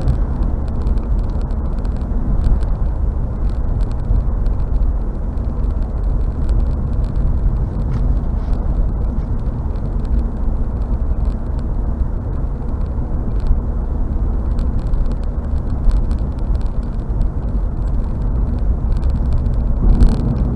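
Steady road noise inside a car driving on a highway: a low, even drone of tyres and engine.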